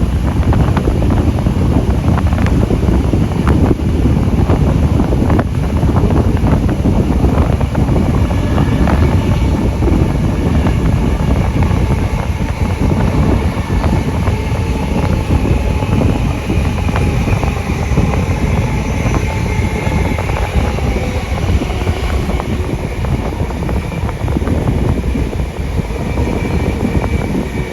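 Steam-hauled passenger train running at speed, heard from onboard, with heavy wind buffeting the microphone: a steady low rumble and rush. A faint high whine comes in about ten seconds in.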